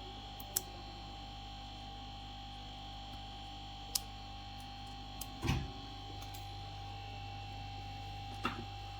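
Steady electrical mains hum from bench equipment, with a few sharp clicks and one short knock about halfway through as tools are handled at the repair bench.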